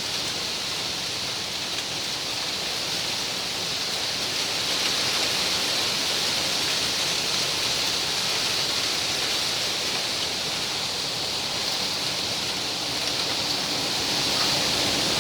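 Wind rustling through palmyra palm fronds: a steady, dense hiss that swells a little about a third of the way in and again near the end.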